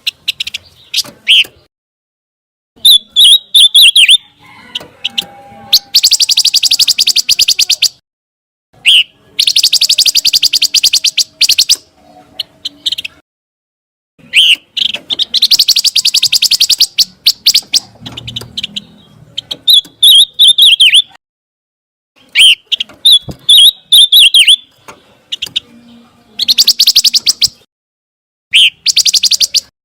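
Pancawarna songbird singing, a recorded song played for mastering caged birds: short sharp chirpy phrases alternate with long, very fast, high buzzy trills lasting two to three seconds, each separated by brief silences.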